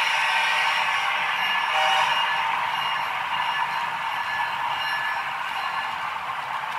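H0-scale model train running on the layout: a steady rolling rattle of the auto rack cars' wheels on the track that slowly fades.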